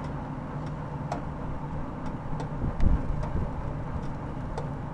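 Pancake frying in hot oil in a pan on the stove, with scattered pops and ticks over a steady low hum.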